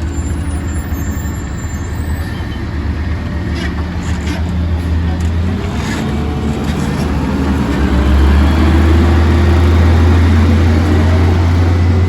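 Garbage truck engine running with a deep steady hum, then revving up and getting louder about two-thirds of the way in. A few faint clicks come in the middle.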